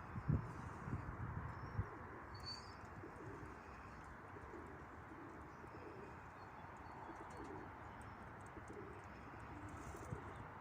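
Domestic pigeons cooing repeatedly over a steady rush of strong wind, with wind buffeting the microphone in the first couple of seconds.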